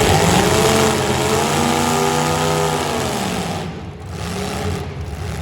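Car engine revving up, holding at high revs for a couple of seconds, then dropping back, over loud background noise.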